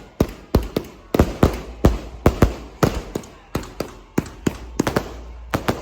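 A rapid, irregular series of sharp bangs, about three a second, each with a short echoing tail.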